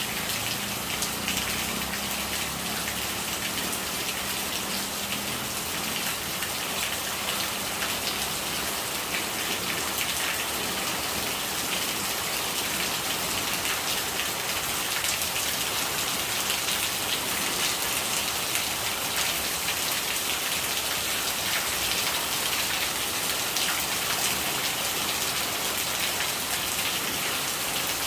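Steady rain falling, many drops pattering on surfaces. A low gurgle of running rainwater fades out over the first few seconds.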